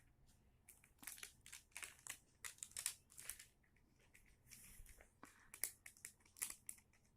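Faint, irregular crinkling and crackling from a child's plastic toy aeroplane being handled and pulled apart, in a quick run of short sounds.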